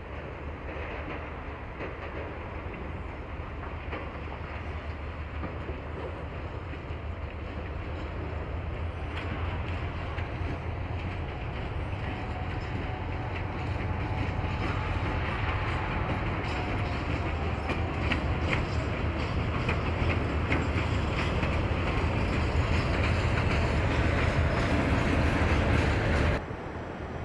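Train running on the rails, growing louder, with wheels clacking over the rail joints; the sound cuts off suddenly near the end.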